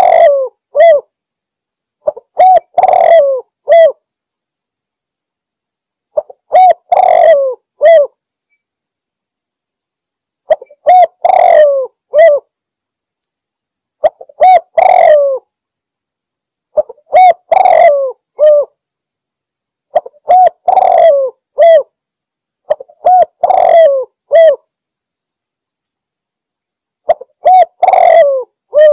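Spotted dove (tekukur) cooing: a loud, repeated coo phrase about every three to four seconds, with silence between. It is a territorial challenge call that draws rival males.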